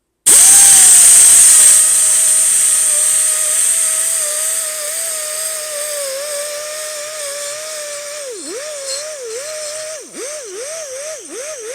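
Air-powered die grinder with a Scotch-Brite pad starting up and running at a steady high whine with a hiss of air. In the last few seconds its pitch dips again and again as the pad is pressed against the lawnmower blade's edge to take off the burr.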